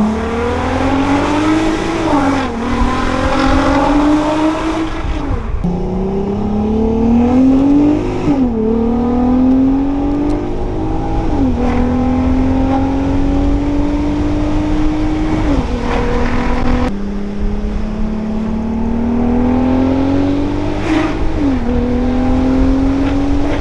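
Tuned Audi A3 3.2 VR6 engine pulling hard through the gears. Its pitch climbs steadily, then drops sharply at each upshift, several times over, with a brief crack at some of the shifts.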